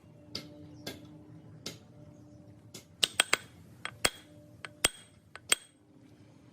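Metal parts clinking and tapping: about a dozen sharp, irregular strikes with a brief metallic ring, the loudest and closest-spaced in the second half, over a faint steady hum.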